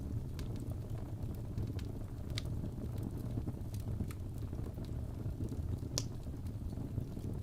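Fireplace fire crackling: scattered sharp pops over a steady low rumble, with the loudest pop about six seconds in.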